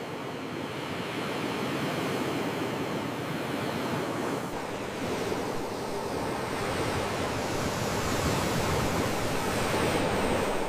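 Sea waves washing onto the shore, a steady rush that swells and builds toward the end.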